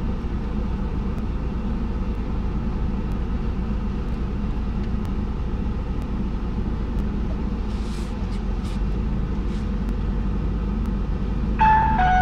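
Car engine idling, heard from inside the cabin as a steady low hum. Near the end, a short two-note electronic beep steps down in pitch.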